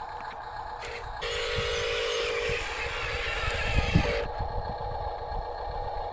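Small electric motors and gearboxes of radio-controlled construction models whining steadily. From about a second in, a louder, hissing whir runs for about three seconds, then drops back to the steady whine, with a few low knocks.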